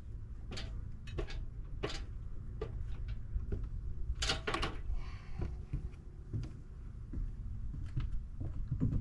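An old screwdriver prying and scraping at corroded screws, trying to break them off: irregular clicks and scrapes, with a couple of sharper knocks about four seconds in.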